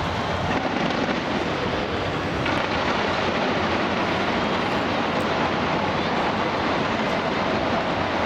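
Fireworks display going off continuously, the many bursts blurring into one steady rumble and crackle.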